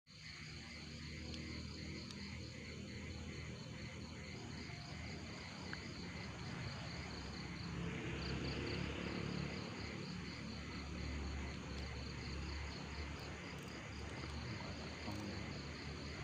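Crickets chirping at night in a steady, rapid, evenly pulsed rhythm. A low rumbling noise swells for a few seconds about eight seconds in.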